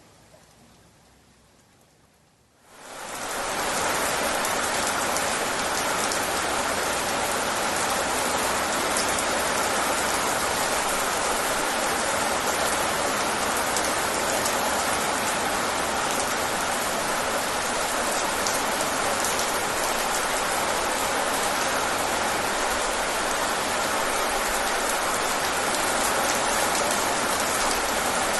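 Steady rain: a dense, even hiss of many drops with fine individual patters. It fades in quickly about two and a half seconds in, after a faint start.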